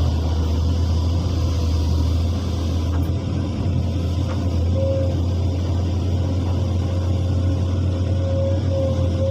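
Excavator engine running steadily: a low drone with a thin, steady whine above it.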